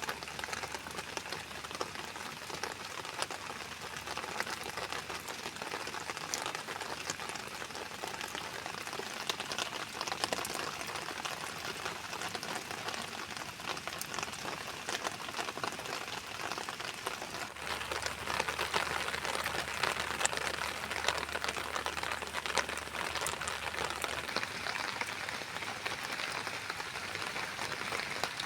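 Steady rain falling, with many separate drops striking surfaces close by; it grows a little heavier past the middle.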